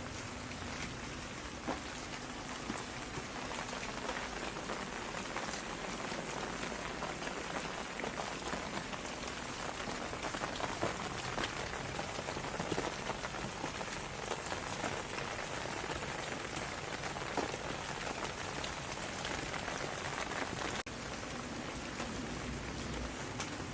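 Steady rain falling, a dense even hiss with individual drops pattering through it. There is a momentary break in the sound about three-quarters of the way through.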